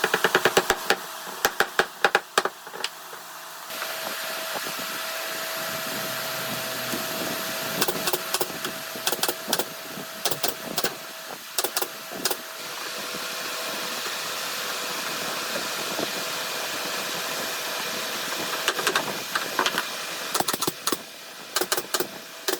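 A woodworking power tool running steadily with a faint whine, with spells of rapid clicking and knocking at the start, in the middle and near the end.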